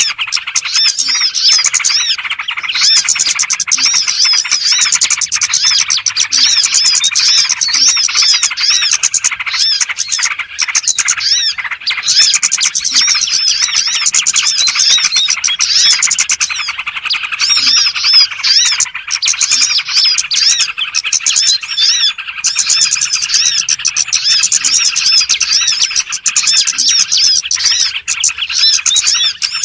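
Lure recording of a flock of small songbirds chirping and twittering densely and without pause, many quick calls overlapping: a bird-trapping call meant to draw small birds in.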